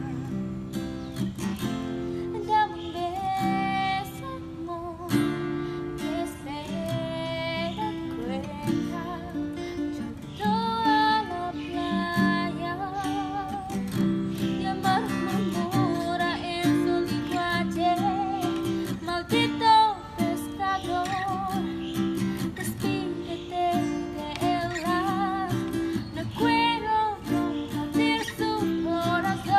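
Acoustic guitar playing a plucked melody over low bass notes and chords, some held melody notes wavering in pitch.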